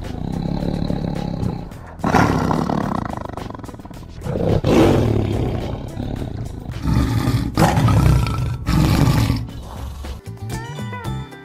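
A tiger roaring several times, deep, loud calls about every one to two seconds from about two seconds in.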